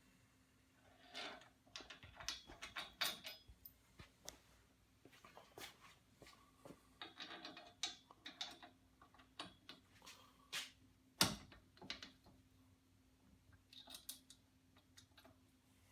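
Faint, irregular clicks, rattles and short scrapes of bolts, nuts and hand tools being handled during a roof rack install, with one sharp metallic knock about eleven seconds in.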